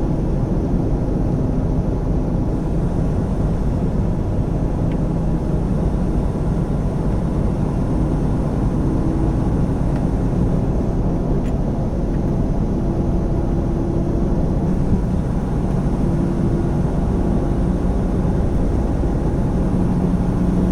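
Steady drone of a semi truck's diesel engine and road noise inside the cab while driving, with faint engine tones that shift slightly in pitch.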